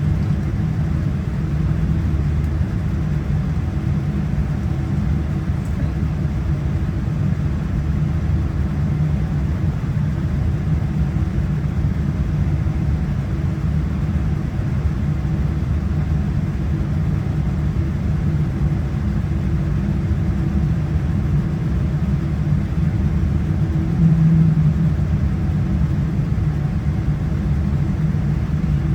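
Steady low rumble inside the cabin of a Boeing 787-9 on the ground, its engines running at low power, with a steady hum over it. Near the end it briefly swells louder for about a second.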